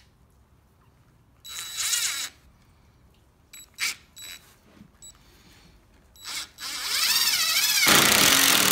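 Cordless DeWalt DCF885 impact driver driving a 2.5-inch deck screw into pallet wood: a short burst about a second and a half in, a few small clicks, then a long run from about seven seconds in that gets louder near the end as the driver hammers the screw home and pulls the board tight.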